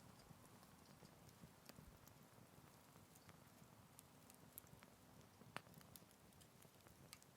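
Faint crackling of a small wood fire: scattered sharp pops and ticks over a low, steady rumble, with one louder pop about five and a half seconds in.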